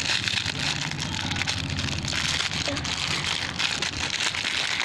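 Plastic toy packaging crinkling and crackling as it is handled and torn open.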